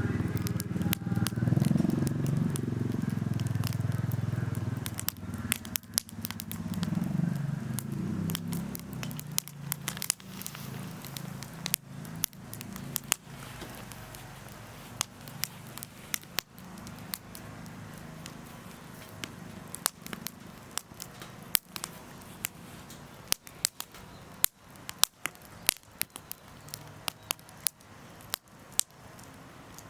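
Wood campfire crackling, with sharp snaps scattered throughout. A low rumble in the first several seconds fades out by about ten seconds in.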